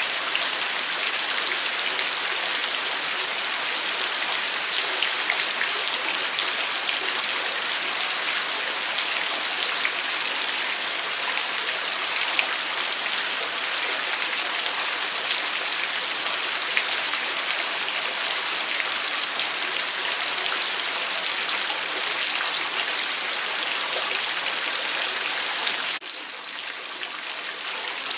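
Steady rainfall at night, a dense hiss of drops with fine individual patters. Near the end the sound drops suddenly to a quieter level, then builds back up.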